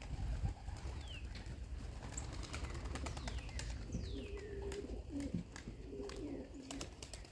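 Domestic pigeons cooing, a low hummed coo about halfway through that lasts a few seconds. Several short falling whistled calls from another bird come through over a low steady rumble.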